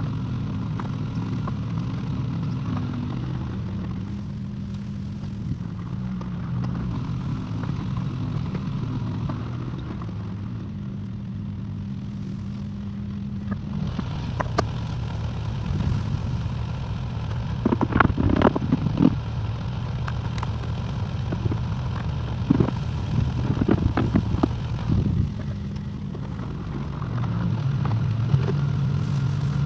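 Excavator's diesel engine running steadily, its note shifting about halfway through, with bursts of metallic clanks and knocks from the working machine, loudest in two clusters in the second half.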